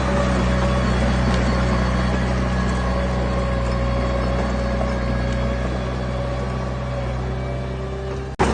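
Heavy machinery diesel engine running steadily at a constant pace, with a slight fall in level; the sound breaks off for an instant near the end.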